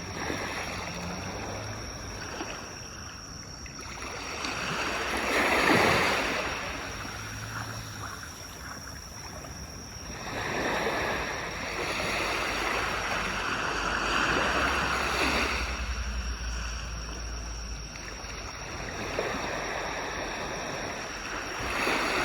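Sea waves breaking and washing up a beach, the rush of surf swelling and ebbing several times; the loudest wave breaks about six seconds in.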